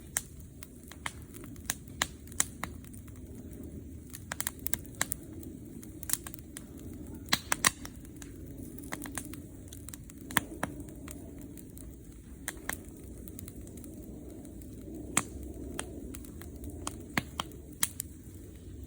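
Wood fire crackling: irregular sharp pops and snaps over a steady low rustle of burning, with a cluster of louder snaps about seven to eight seconds in.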